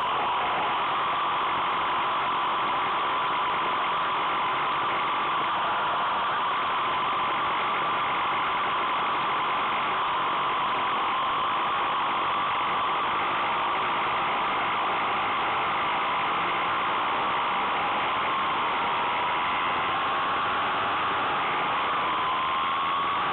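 Steady wind rush on the microphone of a moving 2005 Suzuki Bandit 1200, with the faint hum of its inline-four engine underneath. The engine tone rises slowly in pitch near the end as the bike speeds up.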